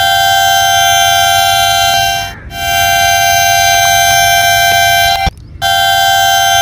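Train horn blowing one steady high note in long blasts, breaking off briefly about two seconds in and again just past five seconds.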